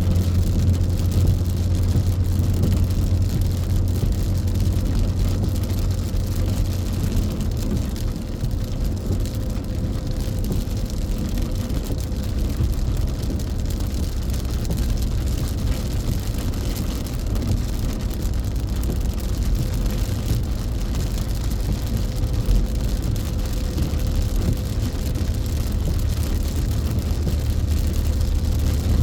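Steady low drone of a car driving on a rain-soaked expressway, heard inside the cabin: engine hum and tyre noise on the wet road. The deepest hum shifts lower about a quarter of the way through and returns near the end.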